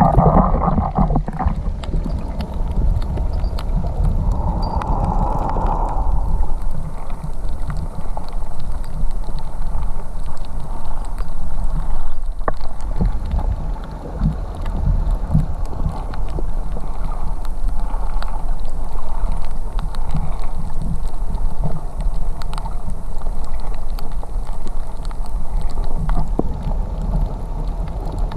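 Muffled water noise as picked up by a camera in or at the sea: a steady low rumble of moving water with scattered small clicks and gurgles.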